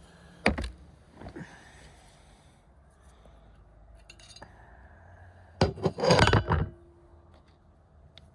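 Camp cookware and utensils clinking and clattering as they are handled: a sharp clatter about half a second in, a lighter knock a second later, then a loud run of clattering knocks around six seconds in.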